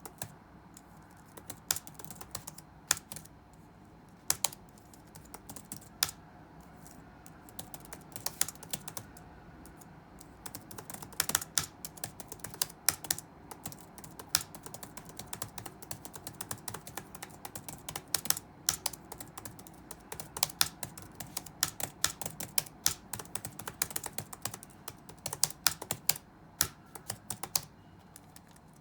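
Typing on a computer keyboard: scattered single keystrokes for the first ten seconds or so, then quicker runs of typing in bursts, over a faint steady low room hum.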